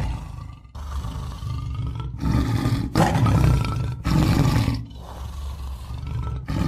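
Tiger roaring: a series of deep roars, one after another with short breaks between them, the loudest about three seconds in.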